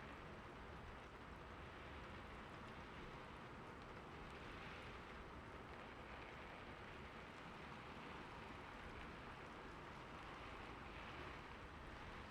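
Steady, soft rain falling, an even hiss of raindrops.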